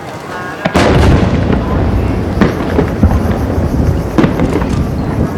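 Aerial fireworks going off: a heavy boom about a second in, followed by a rolling rumble and a string of sharper bangs and crackles.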